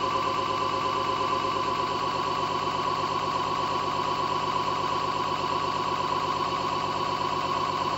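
Home-built generator rig, a 12-volt brushless hub motor spinning a generator, running steadily with a high whine over a fast, even mechanical hum.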